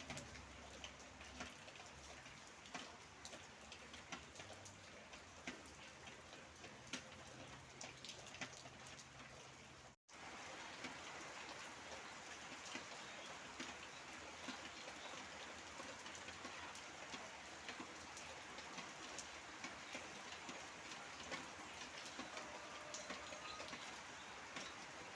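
Rain falling steadily, a dense patter with individual drops ticking on a surface. About ten seconds in, the sound cuts out for an instant and resumes as a denser, heavier rain.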